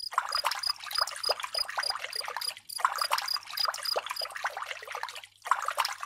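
Water from a mini water pump pouring out of a thin plastic tube and splashing into a small plastic basin, a continuous spattering trickle with two short breaks.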